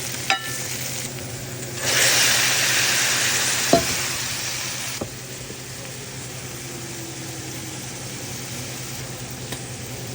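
Bell peppers and green onions sizzling in hot olive oil in a frying pan as they are stirred, with a few sharp taps of the utensil against the pan. The sizzle swells loudly about two seconds in, then drops to a quieter, steady sizzle about five seconds in.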